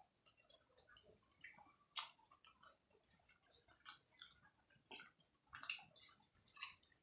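Faint, close-up wet chewing and mouth smacking from eating juicy momos (steamed dumplings), a run of irregular short clicks and squelches.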